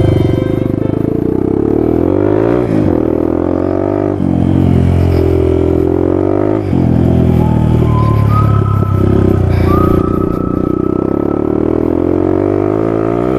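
Suzuki DR200 dirt bike's single-cylinder engine under way, its pitch climbing and dropping back several times as the throttle is opened and rolled off.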